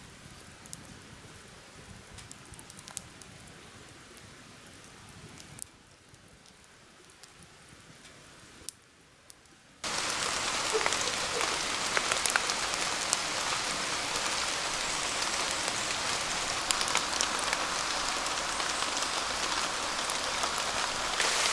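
Heavy rain falling in a steady downpour, coming in suddenly a little under halfway through. Before that, only a faint patter with a few scattered ticks.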